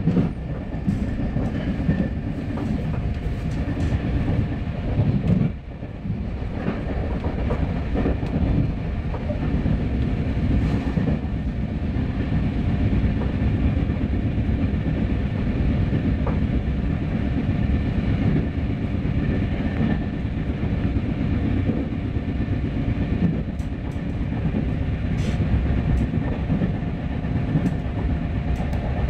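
RER B electric commuter train running at speed, heard from inside the carriage: a steady rolling rumble of wheels on rail with occasional clicks and a faint steady whine over it. The noise dips briefly about five and a half seconds in.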